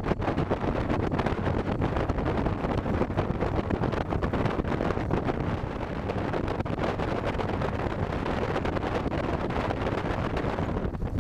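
Steady, rumbling engine noise with wind buffeting the microphone, typical of a light aircraft in flight.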